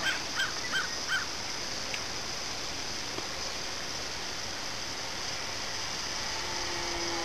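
A bird calls four times in quick succession over a steady hiss. Near the end a faint, slowly falling hum comes in: the brushless electric motor and propeller of the RC Cessna 182 as the plane draws closer.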